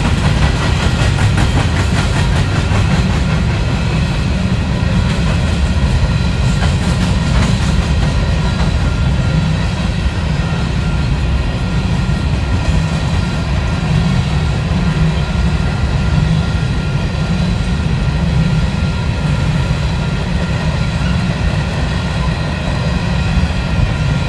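Freight train of coal cars rolling past: a loud, steady rumble of steel wheels on rail, with light clicking over the rail joints in the first several seconds and a faint high-pitched ringing above it.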